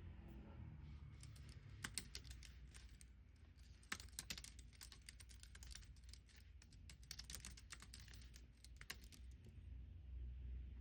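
Typing on a computer keyboard: runs of quick, quiet keystrokes that stop about a second before the end, over a faint low hum.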